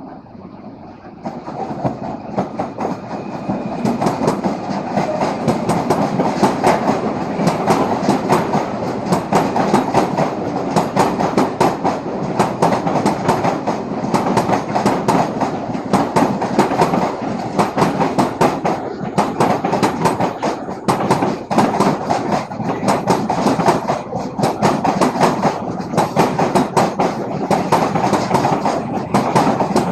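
Renfe train passing close by, wheels clattering over the rail joints. The sound swells over the first few seconds as the train arrives, then holds loud and steady with a dense run of clicks as the cars go by.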